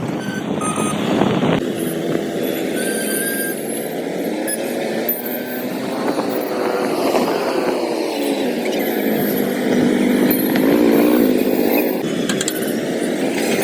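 Motorcycle engine running while riding on the road, its pitch rising and falling with speed, over wind and road noise.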